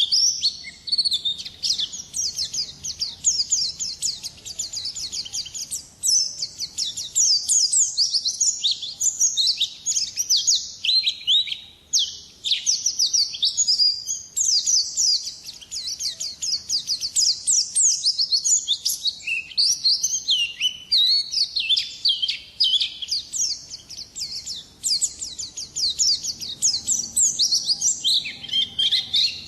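White-eye (pleci) singing a long, rapid, chattering 'ngalas' song of fast, high notes, with brief pauses now and then.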